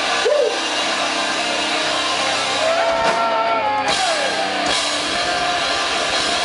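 Live rock band playing loud, with distorted electric guitars and drums. About three seconds in, gliding pitched lines rise above the wash and fall away again.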